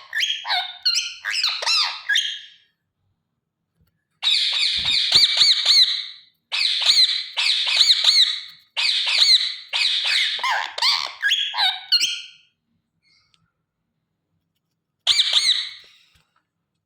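Pet parrot chattering and screeching in rapid high-pitched calls that waver up and down. There is a short burst at the start, a long run of about eight seconds after a pause, and a brief final burst near the end.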